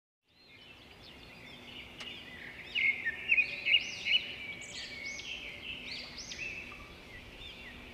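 Birds chirping: many quick, overlapping chirps over a steady high twittering, loudest between about three and four seconds in.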